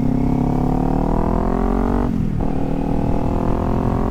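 Kawasaki Z400's parallel-twin engine pulling hard under acceleration, its pitch climbing steadily, with a quick upshift about two seconds in that drops the revs before they climb again. Wind rumble on the microphone sits underneath.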